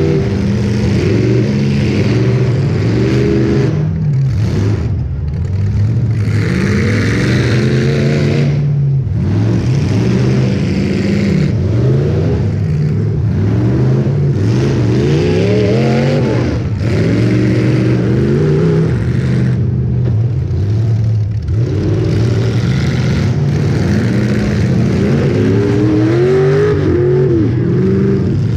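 Demolition derby car engine revving hard, its pitch climbing and falling over and over with brief lifts off the throttle, under a rushing noise.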